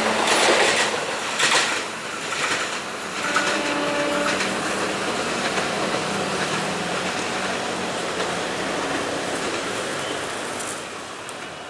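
A passing train's wheels on the rails: clacking knocks over the joints in the first few seconds, then a steady rumble that fades away as the train moves off.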